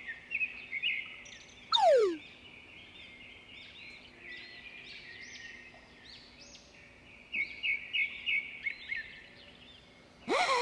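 Birds chirping in quick strings of short, high calls. A loud whistle falls steeply in pitch about two seconds in, and a louder burst with falling sweeps comes near the end.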